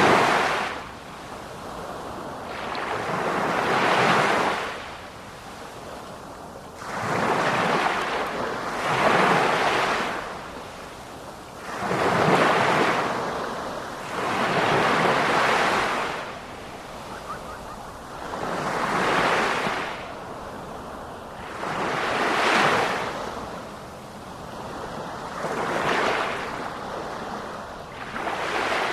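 Sea waves breaking and washing up the shore, each wave rising and falling in a slow rhythm about every three to four seconds.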